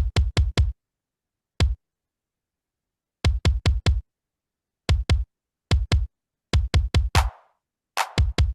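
Electronic drum hits in short runs, mostly four quick deep bass-heavy hits at a time, with silent gaps between, as a hip hop beat is auditioned in a music production program. Near the end the runs come closer together, with a brighter sound over them.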